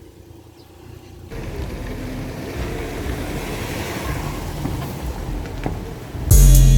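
A Ford Explorer with its mufflers deleted starts about a second in and runs with a loud, raw exhaust rumble. Near the end, loud music with a heavy bass hit cuts in.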